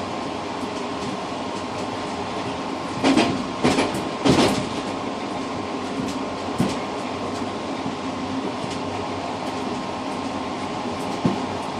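Moving passenger train heard from inside its tail car: a steady running rumble with a hum. A cluster of three loud clattering knocks from the wheels passing over the track comes about three to four and a half seconds in, and single fainter knocks follow later.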